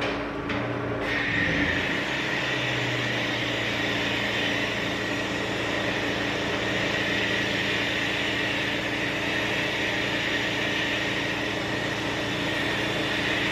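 Pressure washer running steadily, with the hiss of its water spray starting about a second in and holding steady.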